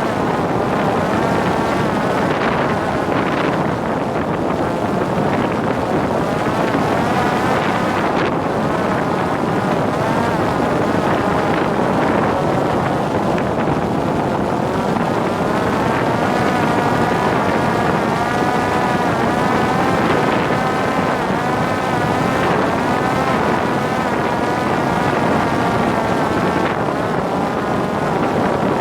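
Parrot Disco fixed-wing drone in flight, heard from on board: the electric motor and rear pusher propeller whine, the pitch wavering gently up and down, over a steady rush of wind on the microphone.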